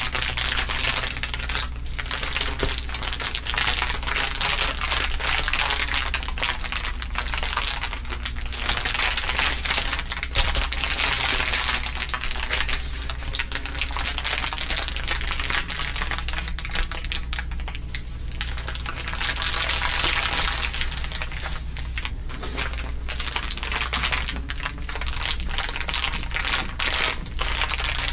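Layered ASMR crinkling: several overlapping crinkle recordings making a dense, continuous crackle of tiny clicks, over a steady low hum.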